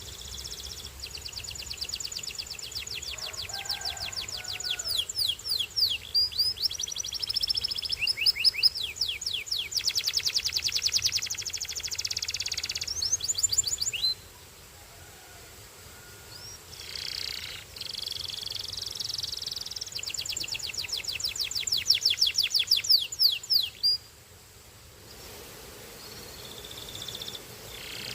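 Belgian canary singing long bouts of fast rolling trills and quick whistled sweeps. The song breaks off briefly about halfway through and again a few seconds before the end.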